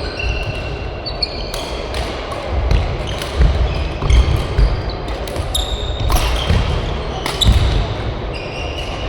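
Badminton rally: sharp racket hits on the shuttlecock about a second apart, with shoes squeaking on the court floor and the thud of footsteps.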